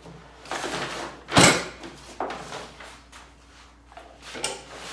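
Handling noise: scraping and rustling with a single loud knock about a second and a half in and a few lighter clunks after it.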